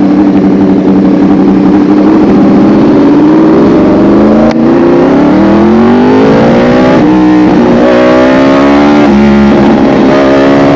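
Yamaha R1 sportbike's inline-four engine, loud, accelerating hard: the engine note climbs steadily for a few seconds, then breaks and drops back several times in quick succession as it is shifted up through the gears.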